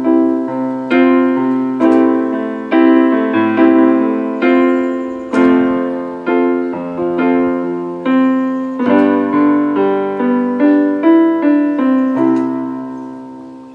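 Keyboard with a piano sound playing full chords in the right hand, struck about once a second and broken into small arpeggios, over single low root notes in the left hand. The last chord rings out and fades near the end.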